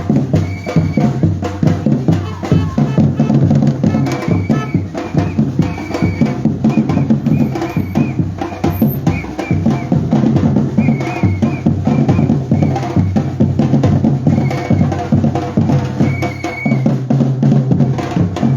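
Batucada percussion ensemble drumming a steady, dense groove of bass drums and snares, with short high tones sounding every second or two.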